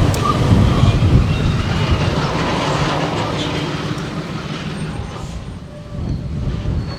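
Diesel freight locomotive running with rail cars rolling over the track. The rumble is loud at first, fades about five seconds in, then picks up again near the end.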